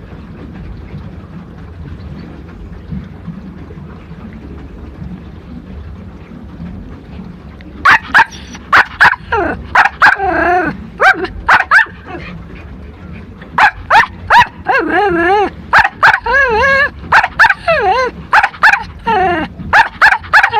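Small dog, a Pomeranian, barking sharply and whining with pitch bending up and down, in quick runs starting about eight seconds in. Before that only a low steady rumble.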